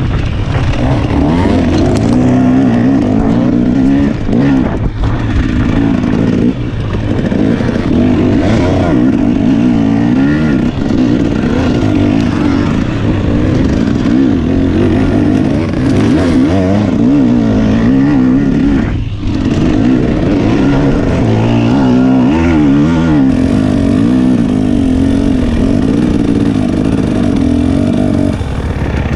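Dirt bike engine being ridden hard, its pitch climbing and falling over and over as the throttle is worked, with a brief let-off about two-thirds of the way through.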